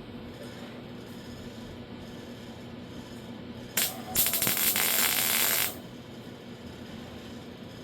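Welder laying a tack weld on 18-gauge sheet steel: a brief blip a little under four seconds in, then a crackling burst of about a second and a half that cuts off sharply.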